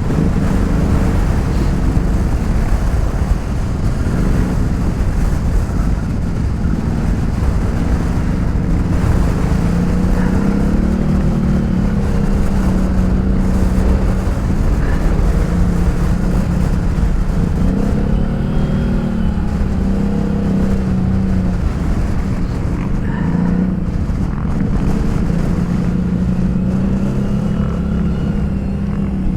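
ATV engine running under load on a rough trail, its pitch rising and falling again and again as the throttle is opened and eased.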